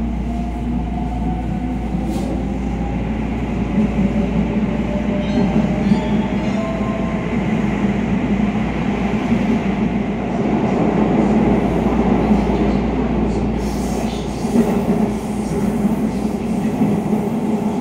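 Inside the cabin of a JR 281 series Haruka express train pulling away from a station: the electric traction motors whine, rising slightly in pitch early on as it speeds up, over a steady rumble of wheels on rail that builds as the train gathers speed.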